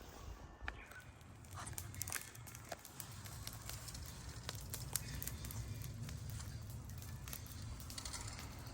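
Wood fire crackling, with irregular sharp pops and snaps throughout, over a low steady rumble.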